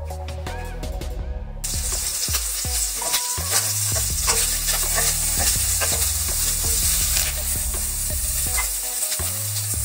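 Prawns frying in hot oil in a nonstick pan, sizzling, while a wooden spatula stirs and turns them with small scrapes and taps. The sizzle starts about one and a half seconds in.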